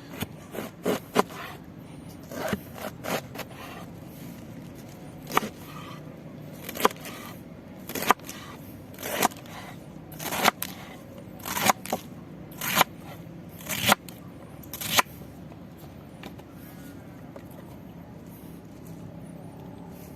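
A series of short, sharp scraping or cutting strokes, roughly one a second, that stop about three quarters of the way through, over a steady low background.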